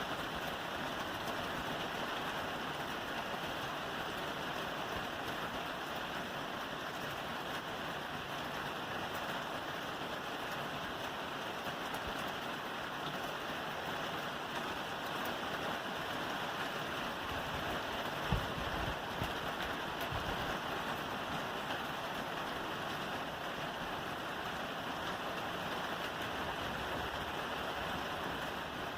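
Steady rain falling on a roof, an even patter with no let-up, and a single dull knock about eighteen seconds in.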